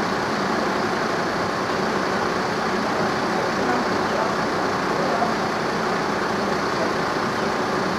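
An engine running steadily at idle, with indistinct voices in the background.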